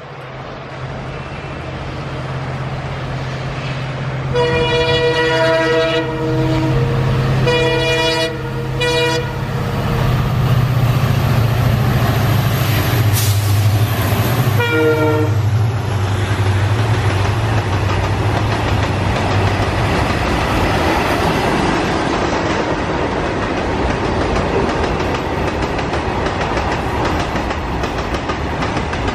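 Indian Railways WDG4 (EMD GT46MAC) diesel-electric freight locomotive approaching and passing with its engine running. It sounds its horn in two long blasts about four and seven seconds in, then one short blast about fifteen seconds in. After that the long train of open-top freight wagons rolls past with a steady rumble and wheel clatter.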